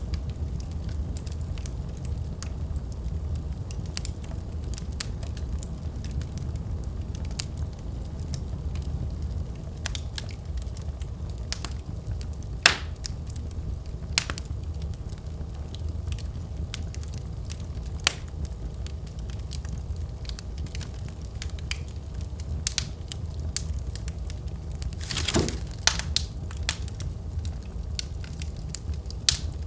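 Wood fire burning in a fireplace: a steady low rumble of flames with irregular crackles and pops from the burning logs, a few pops sharper than the rest and a denser flurry of crackling about 25 seconds in.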